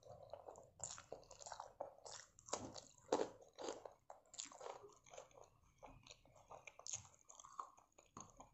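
A person chewing a mouthful of rice and curry eaten by hand: a run of faint, irregular mouth and chewing noises.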